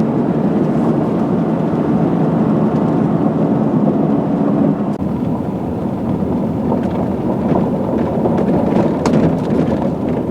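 Steady engine and road noise heard inside a moving vehicle's cabin, a dense low rumble with a hum that eases slightly about halfway through.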